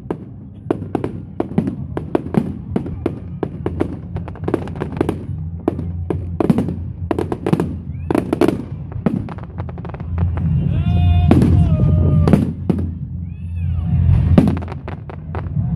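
Firework display: a rapid, dense run of sharp cracks and bangs over a steady low rumble, with a pitched whistling tone in the middle and short whistles rising and falling near the end.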